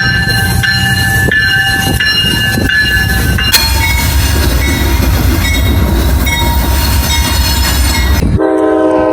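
Train going by with heavy low rumble and scattered high wheel tones, changing abruptly partway through to another passing train; near the end a locomotive horn sounds a loud steady chord.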